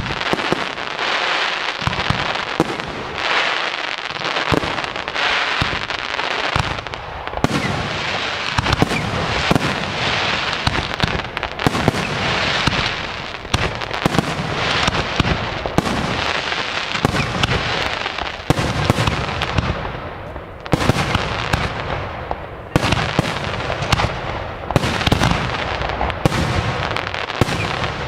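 Professional display fireworks: aerial shells bursting one after another in quick succession over a continuous hiss, with a brief lull about twenty seconds in and the bursts growing denser near the end.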